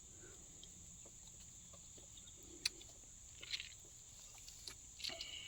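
Faint, steady, high insect chorus, like crickets trilling, with a few light clicks near the middle.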